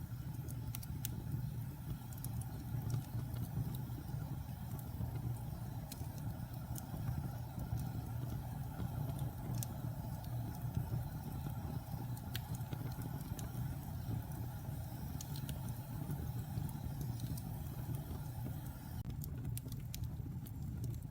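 Wood fire burning in a fireplace: a steady low roar of the flames with scattered sharp crackles and pops.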